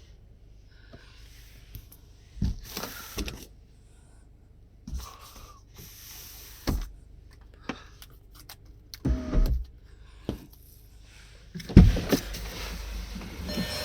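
Clicks, knocks and short mechanical movements from a car's doors and controls being worked, with a brief motor whine about nine seconds in and a heavy thump near the end.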